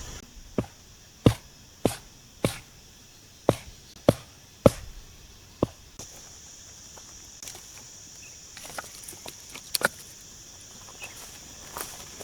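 A run of sharp knocks, about eight in the first six seconds at uneven spacing, then a few fainter taps and a loud double knock near the end, over a faint steady high hiss.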